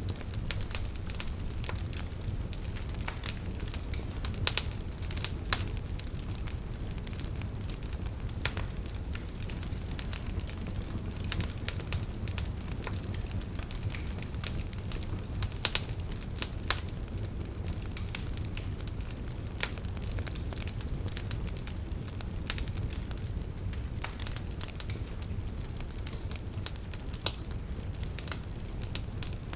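Wood fire burning in a fireplace: a steady low rumble of flames with irregular crackles and pops, a few of them sharper and louder.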